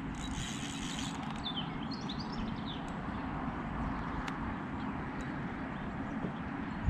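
A small bird chirps a few quick notes about a second and a half in, over a steady low outdoor rumble. A brief high rasp comes right at the start.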